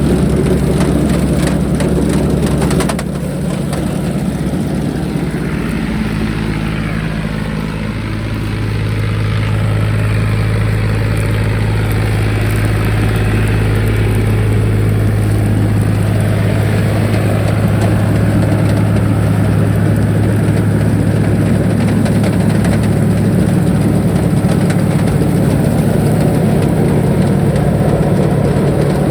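John Deere 5039 tractor's three-cylinder diesel engine running under steady throttle. Its note shifts over the first several seconds, then holds steady.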